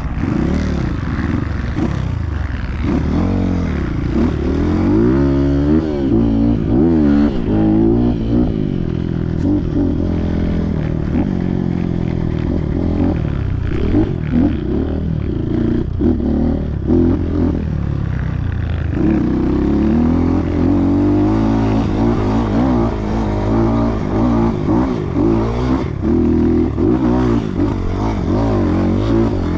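Off-road trail motorcycle engine revving up and down again and again, its pitch rising and falling with the throttle.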